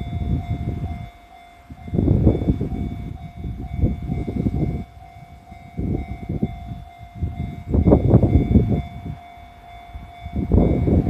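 JR Central 311 series electric train passing over a level crossing, its wheels clattering over the rail joints in groups every couple of seconds as the cars go by. A steady high tone runs underneath.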